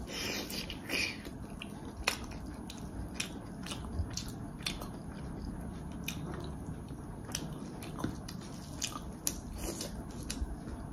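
A person chewing and biting food close up: a run of short, irregular mouth clicks and small crunches.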